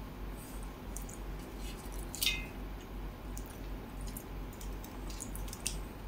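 Close-miked wet chewing and mouth clicks from someone eating fish, scattered short clicks with a louder one a little past two seconds in, over a steady low hum.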